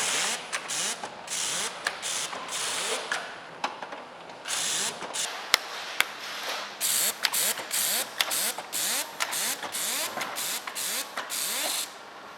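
Production-line machinery in an oil manufacturing plant: repeated short bursts of air hissing, several a second, over many short rising tones, with a pause of about a second midway.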